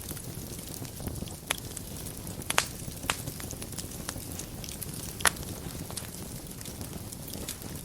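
Wood fire burning in a fireplace: a steady low rumble and hiss of flames with irregular crackles and a few sharp pops, the loudest about two and a half seconds and five seconds in.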